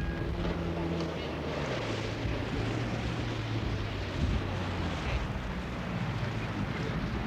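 Steady rushing of wind and sea with a low drone underneath.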